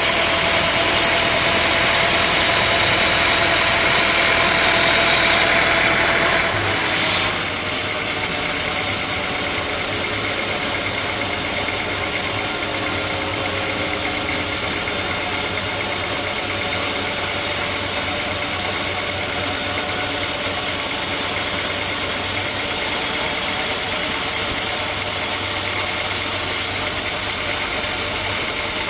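Sawmill machinery running with a steady engine-like noise. It is louder and higher-pitched for the first six seconds or so, then drops to a steady lower level.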